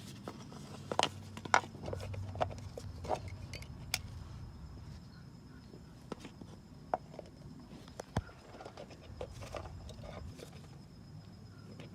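Scattered clicks and knocks of parts and tools being handled during reassembly under the hood, over a steady low hum. The two loudest knocks come about a second and a second and a half in.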